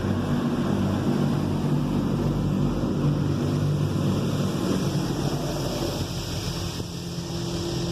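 Oasis XP automatic car wash doing its high-pressure rinse, water jets spraying steadily over the van, heard from inside the van, with a steady low hum underneath.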